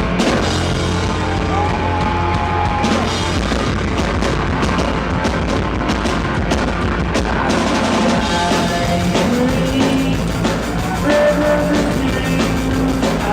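Live rock band playing loud and without a break, with drum kit and amplified instruments.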